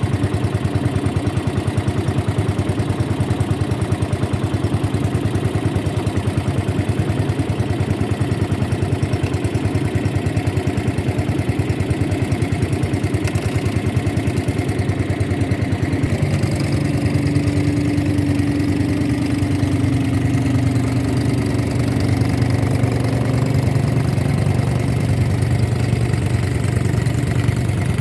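Motorboat engine running steadily with a fast, even pulse. About halfway through, the low drone grows stronger and a steady higher hum joins it for several seconds.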